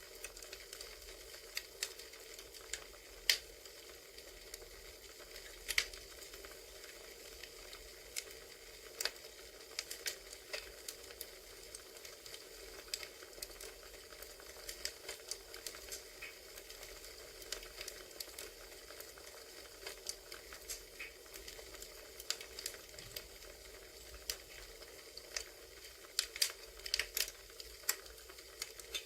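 Crackling campfire from an ambient sound track: a steady hiss with frequent irregular pops and snaps, and a cluster of sharper pops near the end.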